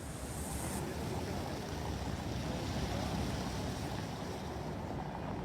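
Road traffic rumble with wind buffeting the microphone, swelling toward the middle and easing off again.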